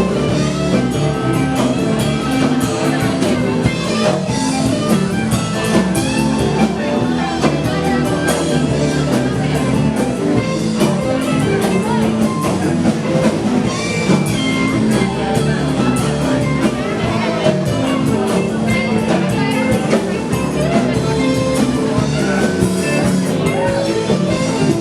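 Live blues band playing, with guitar and a drum kit keeping a steady beat.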